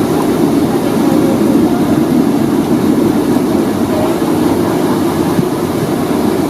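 Steady low rumble and hum inside a Boeing 757-200's passenger cabin while the aircraft is on the ground before takeoff.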